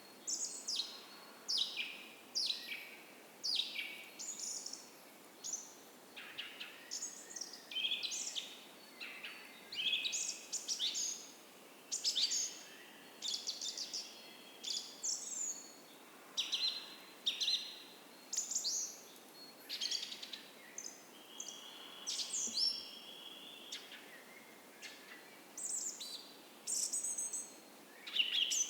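Dawn chorus of several songbirds singing and chirping in quick, overlapping short phrases, with one held whistled note about three-quarters of the way through. Beneath them is a faint steady hiss from a gentle creek.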